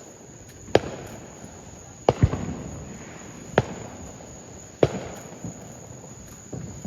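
Fireworks going off: about five sharp bangs a second or so apart, two of them in quick succession about two seconds in, each trailing off in a short rumble.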